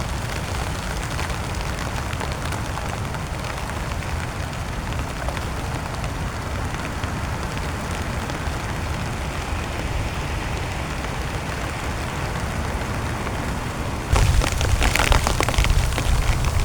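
Steady heavy rain falling on a tent. Near the end it suddenly gets louder, with sharp drops pattering and a low rumble underneath.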